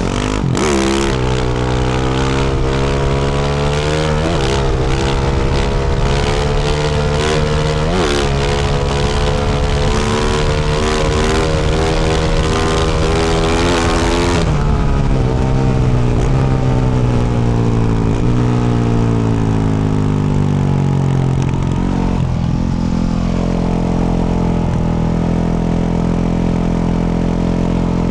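Yamaha YZ450F's single-cylinder four-stroke engine through a Yoshimura RS-12 exhaust, pulling up through the gears with three rising surges of revs. About halfway the throttle closes and the revs fall away over several seconds, settling to a steady low engine speed near the end.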